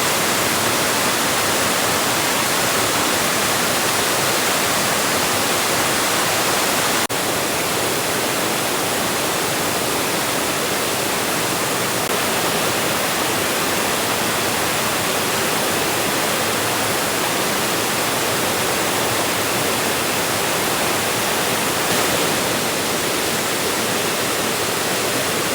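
Steady rushing of a waterfall, an even, unbroken wash of water noise with a momentary break about seven seconds in.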